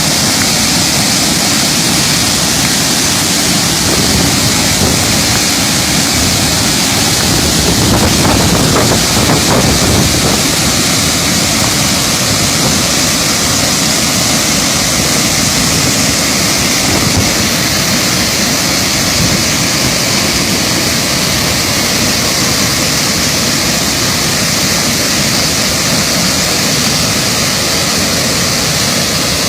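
Waterfall in flood, a loud, steady rush of falling water that swells slightly about eight seconds in.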